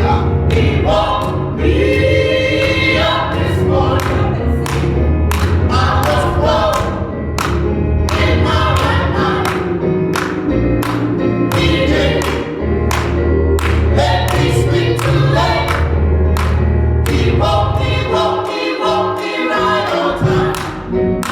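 Gospel choir singing with band accompaniment: a steady drum beat and a heavy bass line, the bass dropping out briefly near the end.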